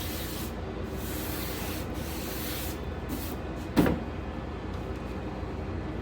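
Welding on a car door's sheet-metal skin: a crackling hiss in short stitch-weld bursts that stop and start, then a brief loud knock with a short ringing about four seconds in.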